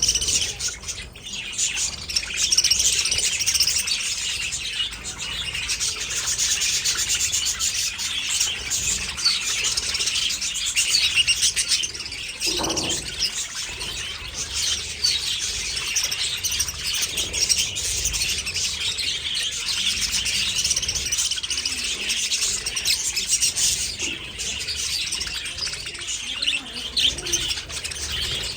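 A large flock of budgerigars chattering and chirping continuously in dense, overlapping high warbles. About halfway through, one lower call stands out briefly.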